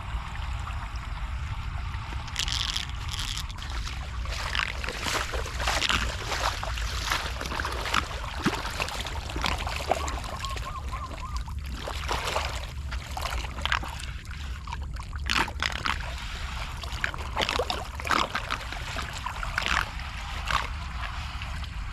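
Floodwater running and splashing as it drains, with many short irregular splashes over a steady low rumble.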